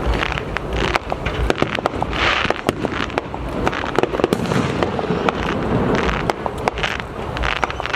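Aerial fireworks display going off continuously: a rapid, irregular string of cracks and pops over a steady rumble of bursting shells.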